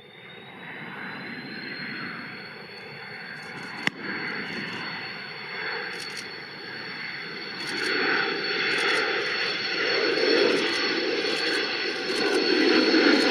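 Yakovlev Yak-40's three Progress AI-25 turbofans, a high steady whine over a roar that grows steadily louder as the jet approaches. A sharp click about four seconds in.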